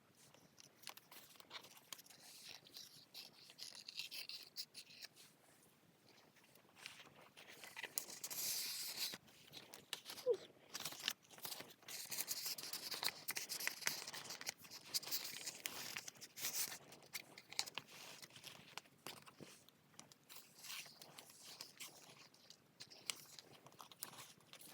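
Paper pages of a handmade junk journal being turned and handled: irregular rustling and crinkling with small clicks, louder for stretches about a third and a half of the way through.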